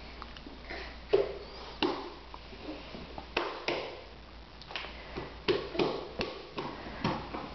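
Irregular sharp taps and knocks on hard surfaces, coming unevenly, up to a few a second in the second half.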